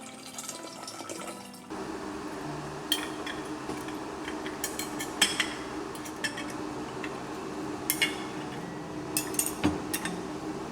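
Liquid pouring steadily into a glass jar, with several sharp glassy clinks over the pour.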